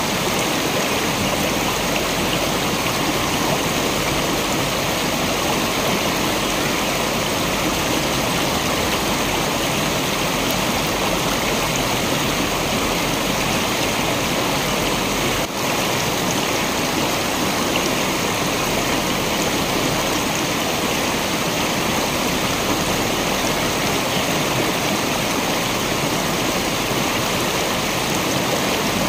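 Waterfall rushing: a steady, even noise of falling and flowing water, with a brief dip about halfway through.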